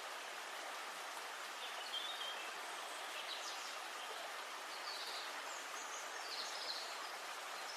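Steady rush of river water with birds giving short high chirps several times.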